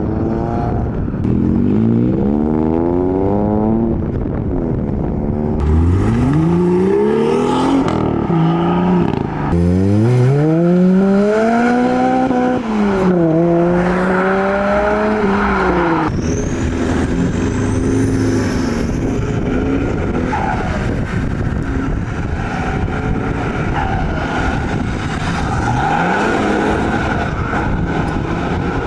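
Modified cars' engines revving and accelerating away one after another, the engine note climbing steeply in pitch, dropping at a gear change about halfway through and climbing again, then settling into a steadier, lower engine sound.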